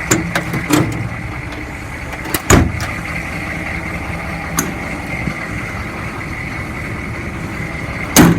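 Steel utility-body cabinet doors and latches clanking and knocking as they are worked open and shut, with small clicks in the first second and loud slams about two and a half seconds in and near the end. A steady mechanical hum with a constant high tone runs underneath.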